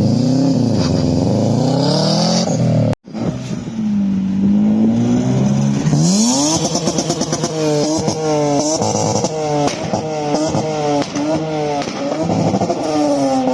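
Car engine being revved hard while parked: long swooping rises and falls in pitch, a brief cut-out about three seconds in, then a fast run of short rev blips, about two a second, in the second half.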